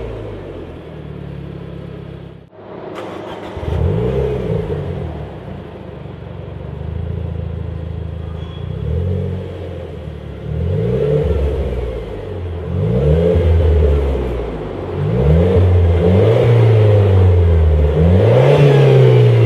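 Renaultsport Clio 200 EDC's 1.6-litre turbocharged four-cylinder running through a Supersprint aftermarket exhaust, revved up and let fall again and again. The revs come quicker and louder in the second half, and the sound briefly cuts out about two and a half seconds in.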